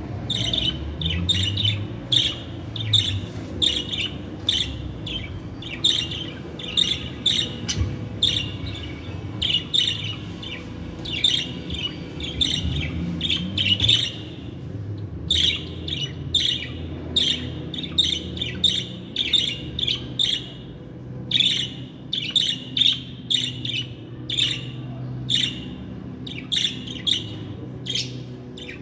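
Budgerigars (pet parakeets) chirping and chattering: a steady stream of short, sharp, high chirps and squawks, several a second, with brief pauses.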